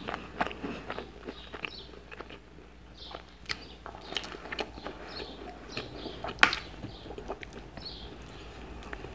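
Close-miked eating sounds: crunchy bites into a fried pastel pastry and wet chewing, lip smacks and crackles, with one sharp crackle about six and a half seconds in that is the loudest.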